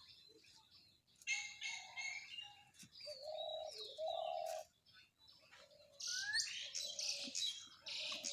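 Birds chirping, many short high calls and quick sweeps, busier from about six seconds in, with a few short, lower held notes in between.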